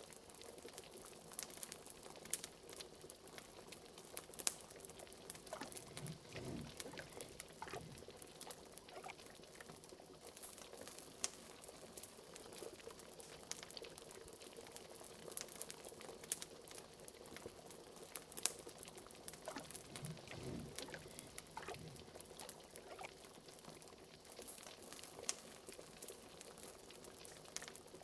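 Liquid bubbling at a steady boil, as from a cauldron, with many small sharp crackles and pops from a wood fire; twice a few deeper, larger bubbles gloop up.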